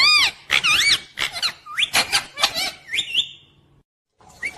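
Pet parrot making a rapid run of short, high-pitched squawking calls that rise and fall in pitch. The calls break off briefly a little before four seconds in, and another call follows near the end.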